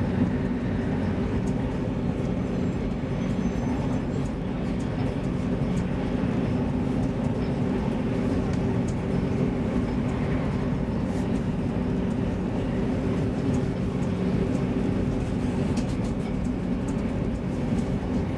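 Interior running noise of an X10 electric commuter train: a steady low rumble with a constant hum, and faint small rattles and clicks now and then.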